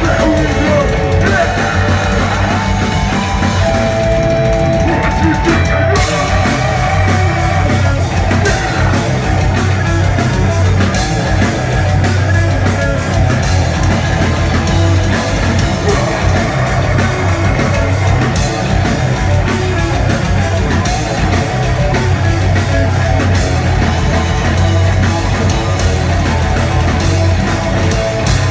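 A rock band playing live at full volume: electric guitars and a drum kit, with some singing. The song stops abruptly at the very end.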